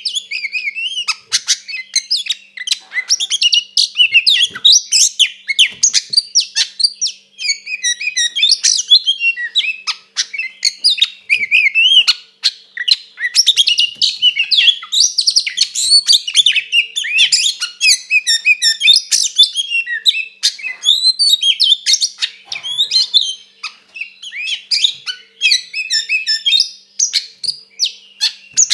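Oriental magpie-robin (kacer) in full, non-stop song: a fast, loud stream of varied whistles, chirps and harsh clicking notes with hardly a pause. This is the fired-up, combative 'tarung' singing that keepers play to provoke other kacer.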